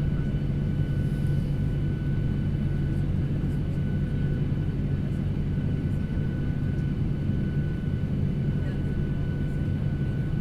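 Steady drone of an airliner heard from inside the passenger cabin, with a constant high whine over a low hum and no change in pitch or loudness.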